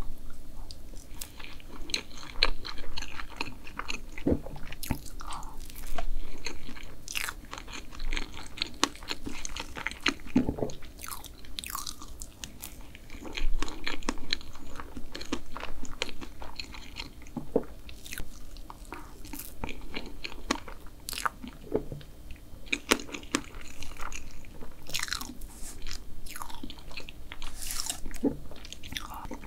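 Close-miked eating sounds: a person chewing and swallowing mouthfuls of soft strawberry cream cake, with many small wet clicks and smacks of the mouth.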